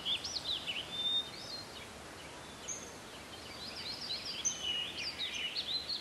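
Small birds chirping and twittering, many quick rising-and-falling calls overlapping, thinning out in the middle and busiest near the end, over a steady outdoor hiss.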